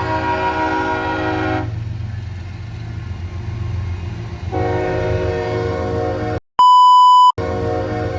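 CSX freight locomotive sounding its multi-chime air horn in two long blasts over the low rumble of the passing train, the first ending about a second and a half in and the second starting a few seconds later. Near the end the sound cuts out briefly and a loud, steady electronic beep lasts under a second.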